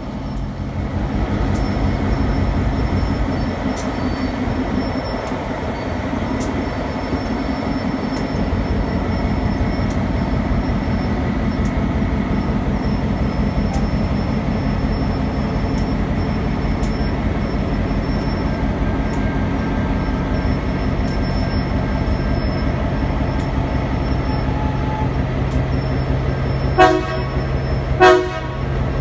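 Diesel-powered GREX work train rolling past: a steady rumble of the locomotive and the gondola cars, with light clicks about every second. Near the end, two short horn toots about a second apart.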